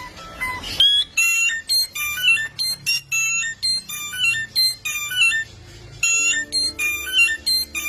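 Songbird singing a fast, varied run of high whistled notes that jump abruptly from pitch to pitch, in quick phrases with brief gaps.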